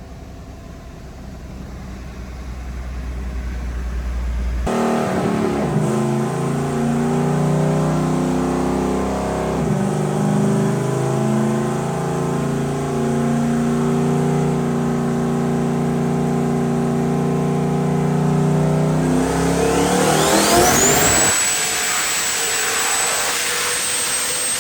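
A vehicle engine starts running steadily about five seconds in and holds an even speed. Near the end it revs up, and a high-pitched whine climbs and then holds steady.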